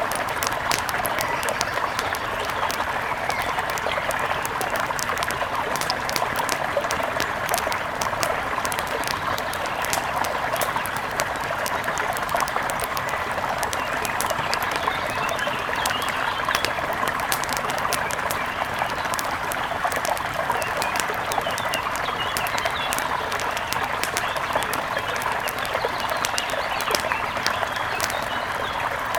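A steady rush of flowing river water mixed with a wood fire crackling, with many small sharp pops scattered throughout.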